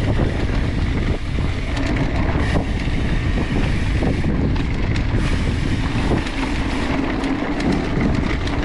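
Wind buffeting the microphone of a mountain bike descending a dirt trail at speed, over steady tyre noise, with scattered knocks and rattles from the bike going over bumps.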